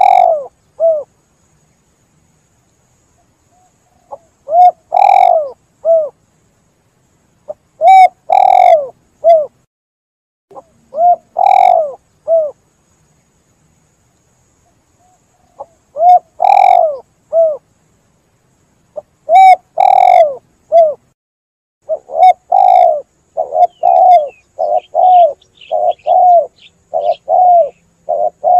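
Spotted dove cooing: short phrases of a few low coos separated by pauses of one to three seconds, the coos coming quicker and closer together over the last several seconds.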